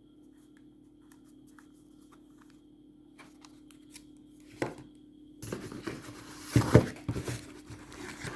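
Fireworks in paper and cardboard packaging being handled: faint ticks, a single knock about four and a half seconds in, then a few seconds of rustling and crinkling, loudest near the end. A low steady hum runs underneath.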